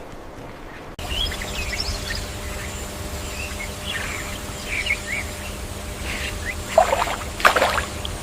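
Small birds chirping in short calls over a steady low outdoor rumble, with two louder sudden noises near the end.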